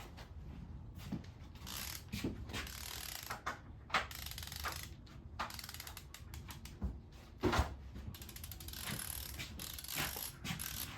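Socket wrench ratcheting in irregular runs of clicks, with knocks of metal tools, as the crankshaft main cap bolts are tightened to torque.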